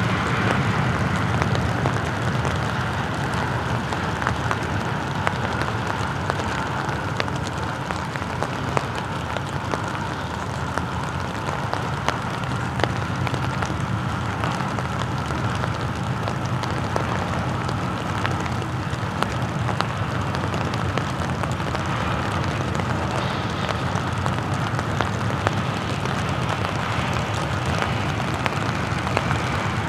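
Freight train rolling slowly past: a steady low rumble of its diesel locomotives working, with a constant higher tone and scattered clicks from the wheels on the rails. Rain hisses and patters underneath.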